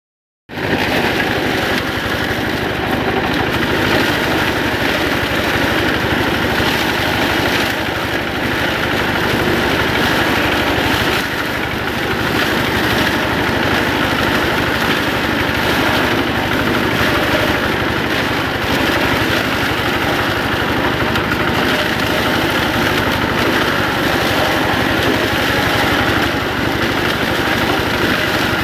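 Walking tractor engine running steadily under load while driving a mini corn harvester, a dense mechanical noise that starts about half a second in.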